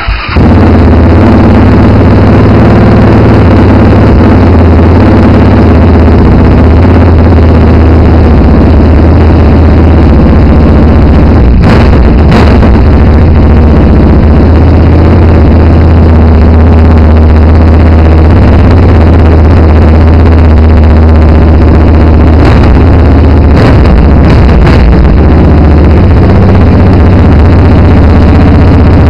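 Yamaha Raptor 700's single-cylinder four-stroke engine running loud and steady through a DMC Comp4 Afterburner dual exhaust, mostly at idle. A few brief sharp bursts come around the middle and again near the end.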